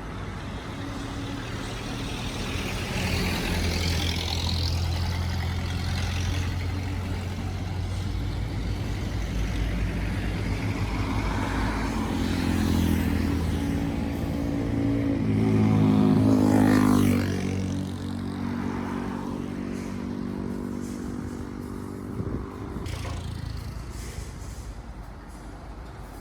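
Highway traffic going by: a steady low truck-engine drone, then a louder vehicle passing about two-thirds of the way through, its engine note rising as it nears and dropping as it goes by.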